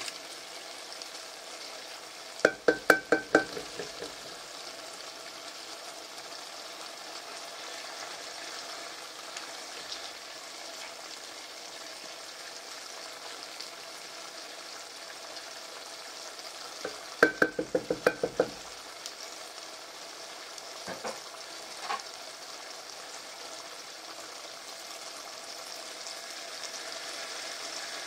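Rice and chicken frying in oil in a large metal pot, a steady sizzle, while a wooden spatula stirs. Two quick runs of ringing knocks of the spatula on the pot come a few seconds in and again past the middle, with a couple of single knocks soon after.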